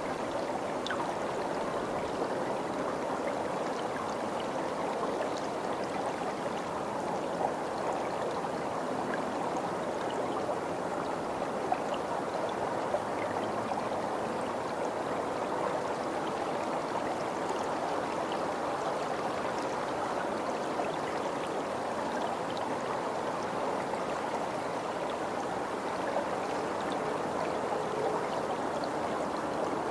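Steady rushing of flowing stream water, unchanging throughout, with a few faint short ticks.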